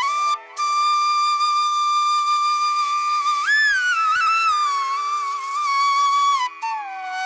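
Background music: a solo flute playing a slow melody of long held notes with sliding bends up and down between them, over a faint steady drone.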